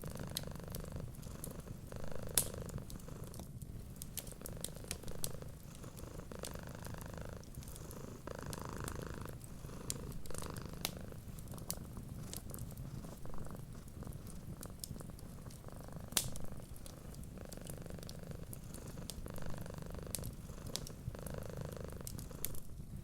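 Cat purring steadily, a low rumble that swells and eases with each breath, over a fireplace's scattered crackles and pops, two of them sharper about two seconds in and again past the middle.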